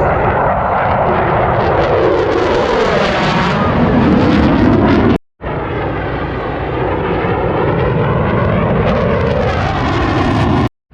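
Loud engine noise from a low-flying F-16 fighter jet passing by, its pitch sweeping as it goes over. The sound cuts off abruptly about five seconds in and again near the end.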